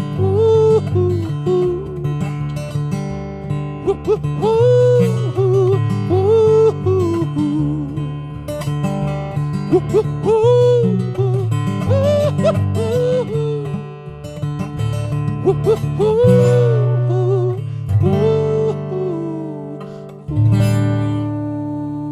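Acoustic guitar strumming with a wordless sung "woo-hoo-hoo" melody repeating over it as the song's outro. Near the end a last chord is strummed and left to ring out, fading.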